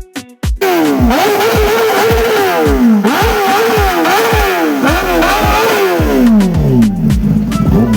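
Superbike engines revved hard again and again, the pitch climbing and dropping over and over, cutting in suddenly just after the start over a music track's steady bass beat.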